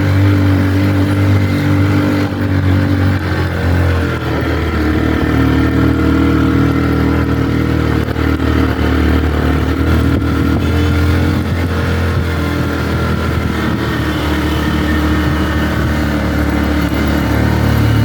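Motorcycle engine running steadily while riding, its pitch shifting up and down with the throttle.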